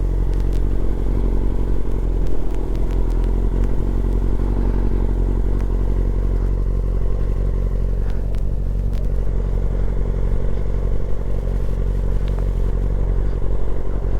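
Motorcycle engine running steadily at low speed, with a few faint clicks.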